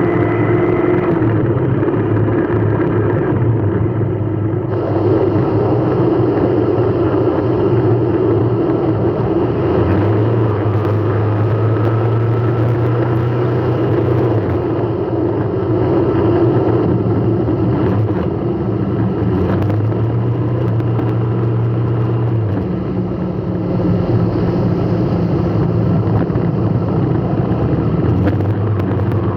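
Vehicle running in traffic: a steady engine hum and road noise, with a low drone that comes and goes several times.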